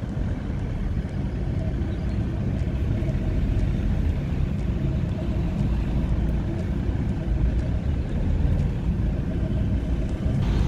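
Car driving, its engine and road noise a steady low rumble.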